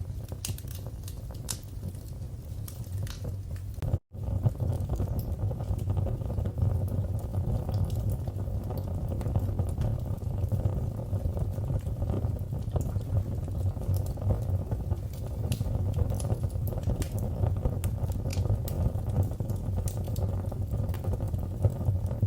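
Wood fire in a fireplace crackling, with scattered sharp pops over a steady low rumble. About four seconds in, the sound cuts out for a split second, and afterwards the rumble is a little louder.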